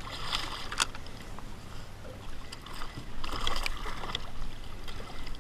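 Water sloshing and lapping against a kayak hull, with a sharp click just under a second in and a brief louder stretch about three seconds in.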